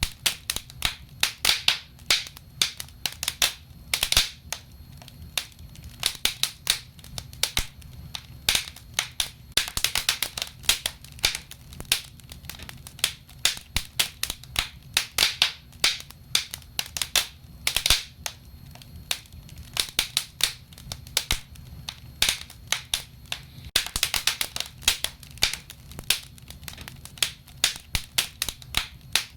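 Wood fire burning in a fireplace, crackling and popping: irregular sharp pops, some of them in quick clusters, over a faint low rumble of the flames.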